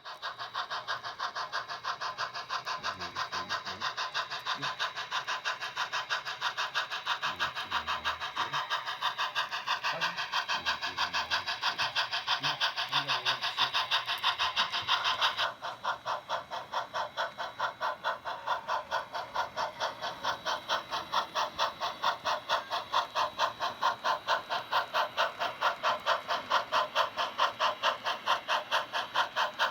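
On30 model train running, with a fast, even rhythmic beat. The sound changes abruptly about halfway through.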